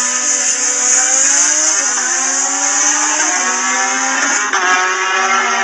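High-revving racing engine running hard, its pitch climbing and then dropping sharply about two seconds in, as at a gear change, and shifting again later on.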